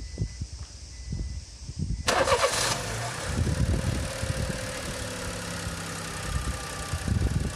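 Honda Life JB7's 660 cc three-cylinder engine being started about two seconds in: it catches at once and settles into a steady idle. These are its first start on freshly fitted NGK Iridium MAX spark plugs. Before it, a few low knocks.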